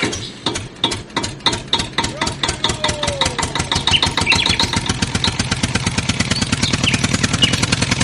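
Tractor engine chugging, its even beat quickening from about four to about ten a second as it revs up.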